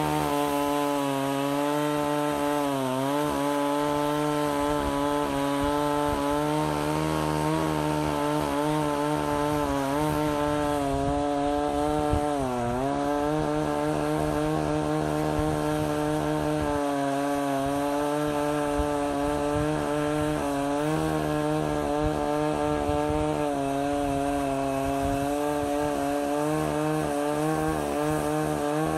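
Stihl 038 Magnum two-stroke chainsaw running at high revs through a cut in a fallen tree, the engine note steady and sagging briefly under load about three seconds in and again around twelve seconds.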